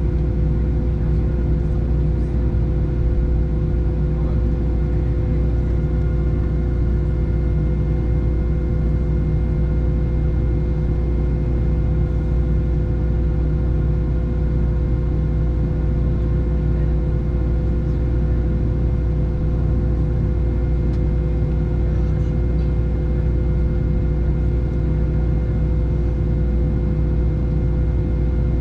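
Boeing 737-700 cabin noise heard from inside: the CFM56-7B jet engines and airflow give a steady low drone, with several constant whining tones above it.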